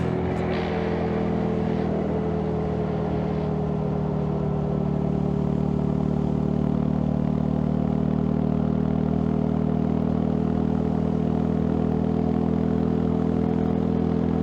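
Honda CB150R's single-cylinder engine running steadily under way. Its note dips a little early on, then rises gradually as the bike gathers speed.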